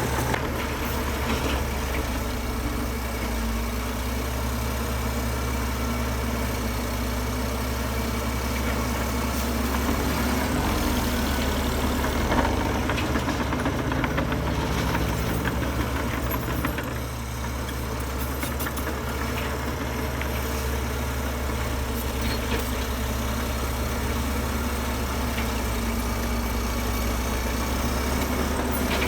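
Heavy diesel engine of earthmoving machinery running steadily under varying load, its pitch lifting for a few seconds about ten seconds in, with a single sharp knock about twelve seconds in.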